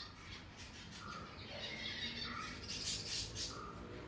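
Small birds chirping and squawking in the background: a short call repeating about once a second, with faster high chirps clustered in the second half.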